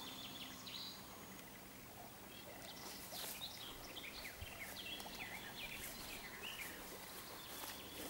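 Small songbirds chirping and singing: a quick run of short, high calls that picks up about two and a half seconds in and goes on for several seconds.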